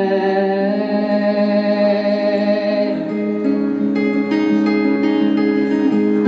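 Acoustic guitar playing a picked passage between sung lines. A long held sung note carries over it and fades out about three seconds in, after which only picked guitar notes remain.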